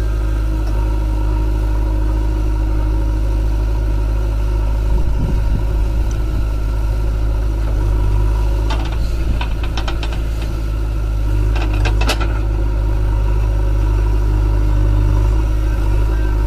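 Backhoe loader engine running steadily with a deep drone, with two short runs of sharp clattering clicks a little past the middle.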